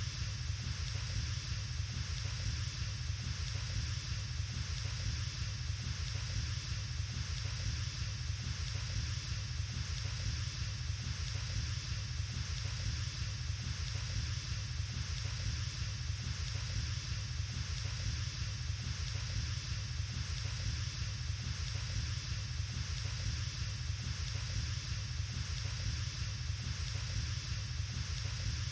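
Wood fire burning in a fireplace: a steady, even hiss with no change throughout.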